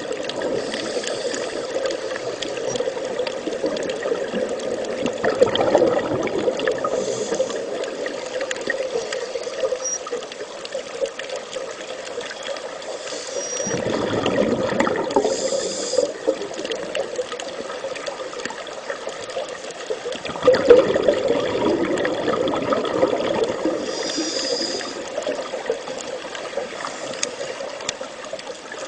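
Steady running, trickling water, rising in two louder surges about 14 and 21 seconds in.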